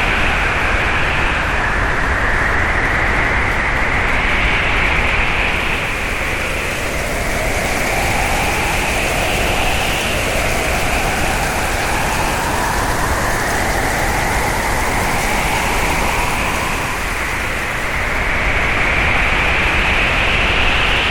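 Hurricane wind blowing hard: a steady rushing noise with whistling tones that slowly rise and fall in pitch.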